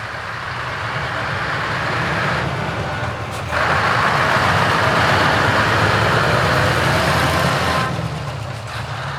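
Heavy truck engine running with an open exhaust as the truck passes close. A loud rushing noise cuts in abruptly about a third of the way in and drops away near the end.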